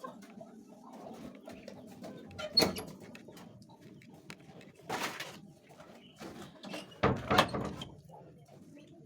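Hens clucking steadily in a low chorus, broken by a few sharp knocks and clatters: the loudest comes about two and a half seconds in, and a cluster follows around seven seconds in.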